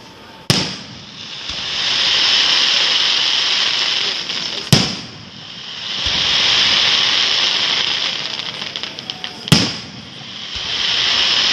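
Fireworks going off: three sharp bangs about four and a half seconds apart, each followed by a loud hissing, crackling spray lasting a few seconds.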